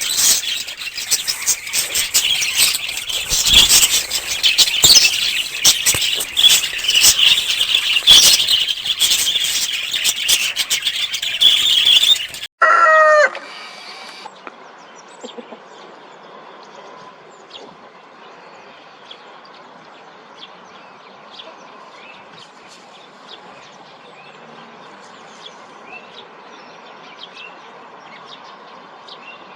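A loud, dense chorus of high bird chirps mixed with many sharp clicks, cutting off abruptly about twelve seconds in. A short call that falls in pitch follows, then quiet background with scattered faint bird chirps.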